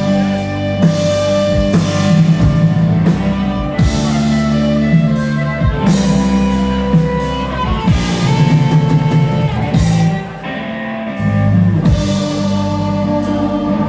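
Live rock band playing an instrumental passage with drum kit, bass, electric guitar and organ. About ten seconds in, the bass and low end drop out briefly, then come back in.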